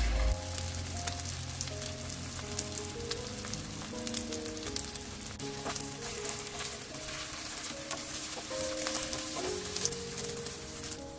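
Egg-battered perilla leaves sizzling in cooking oil in a frying pan, a steady crackle of fine pops, over soft background music.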